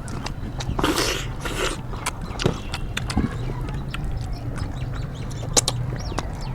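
People eating curry and rice with their hands: wet mouth sounds of chewing, lip smacks and clicks, with two short slurping hisses about a second in.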